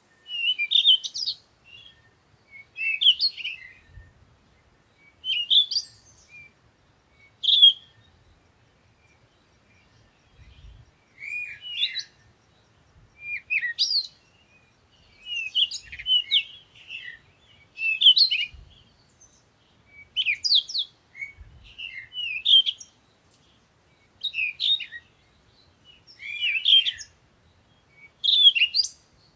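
Songbirds chirping: short, high twittering phrases that come about every one to two seconds, with a pause of a couple of seconds about a third of the way in.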